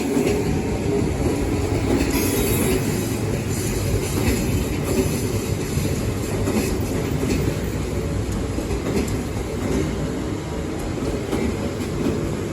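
An Odakyu Electric Railway train running past over a level crossing: a steady rumble with irregular knocks from the wheels.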